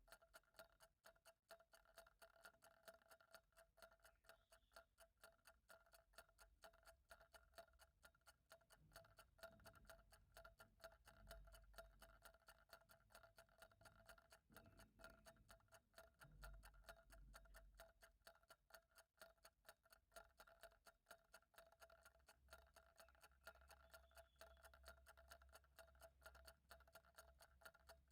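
Faint, fast, even ticking of a clock, over a faint steady hum.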